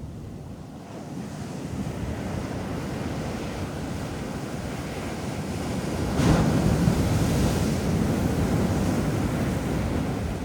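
Ocean surf on a beach: the wash builds up, and a wave breaks about six seconds in, followed by its rushing foam.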